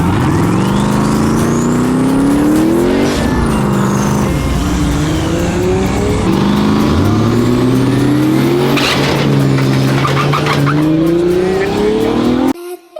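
Turbocharged drag-race pickup truck's engine at full throttle. Its pitch climbs steeply and drops back several times as it shifts up through the gears, with a high turbo whistle rising and falling above it. The sound cuts off abruptly near the end.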